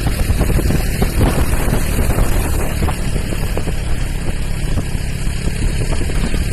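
Wind buffeting the microphone of a moving motorcycle, a loud, steady rumble with the vehicle running underneath.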